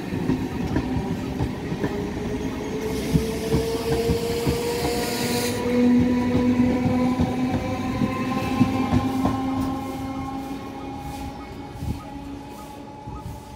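Electric multiple-unit local train pulling out and gathering speed past the platform: a whine from its traction motors slowly rises in pitch over the clatter of wheels on the rail joints. A loud hiss joins in about three seconds in and cuts off suddenly a couple of seconds later. The sound fades after about nine seconds as the last coach passes and the train moves away.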